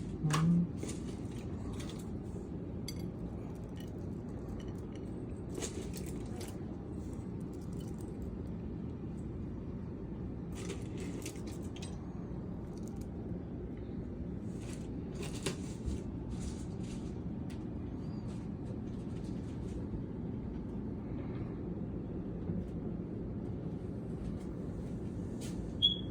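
Sparse light clinks of tableware over a steady low hum, with a brief low voiced sound right at the start.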